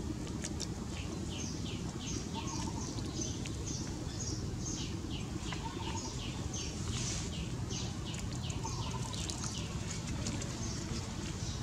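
Birds chirping in a quick run of short falling notes, several a second, with a lower call repeating every few seconds, over a steady low rumble.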